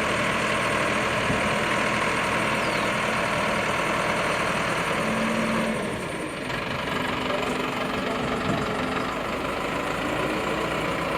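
A crane truck's engine running steadily, with a brief dip in loudness about six seconds in.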